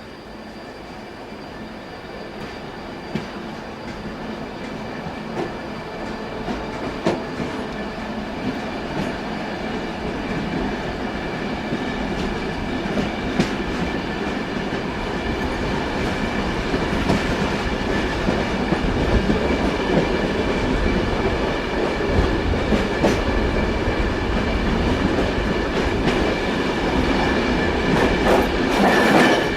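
Train wheels running on the rails, with scattered clicks over the rail joints; the noise grows steadily louder.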